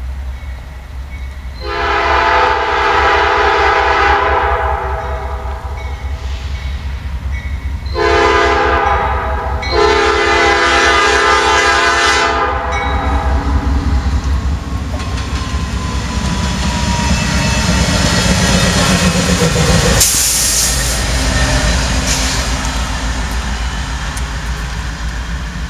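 Norfolk Southern diesel locomotive sounding its multi-chime horn: a long blast, then a short one and another long one, the horn pattern for a grade crossing. Then the locomotive rumbles past close by, its engine and wheels getting louder.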